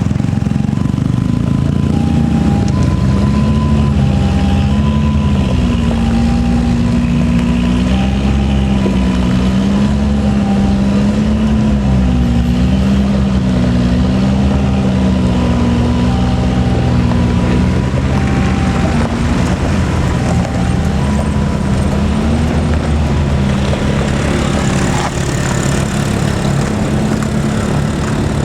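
Engine of an old Toyota DA100 truck running steadily, its pitch wavering up and down, with a two-tone beeping repeating over it for most of the stretch.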